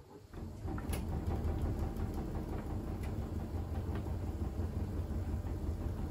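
Siemens iQ700 WG56B2090 front-loading washing machine starting its drum again after a pause: a low, steady rumble comes in about half a second in and holds, with a few faint clicks.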